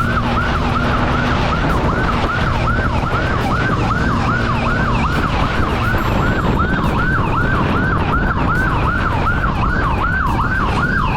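Police siren in a fast yelp, its pitch sweeping up and down about two and a half times a second, over a steady rushing noise of traffic and wind.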